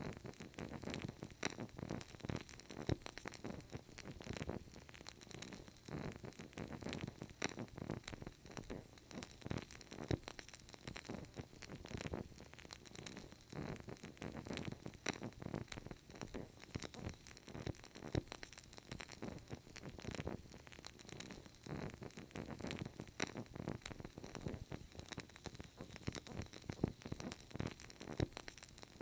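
Burning candle crackling: a steady, dense run of small pops and clicks.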